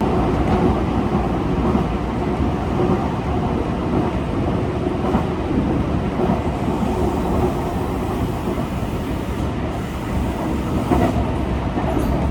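A train running on its rails: a steady, loud rumble of wheels and running gear.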